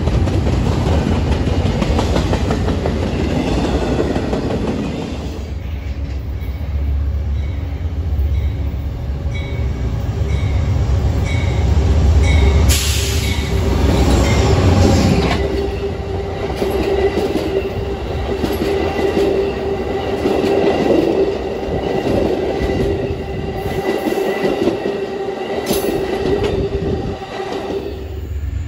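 Double-stack container freight cars rolling past on the rails, then an Amtrak passenger train passing close: its GE Genesis diesel locomotive goes by loudest about halfway through, followed by the passenger cars rolling past with a steady squealing tone from the wheels.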